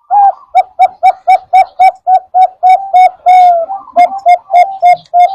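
Zebra dove (perkutut) calling: a fast run of short, clipped coo notes, about four a second, with one longer drawn-out note a little past the middle.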